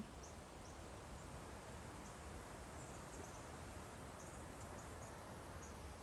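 Faint steady outdoor background noise with scattered faint, short, high chirps of small birds.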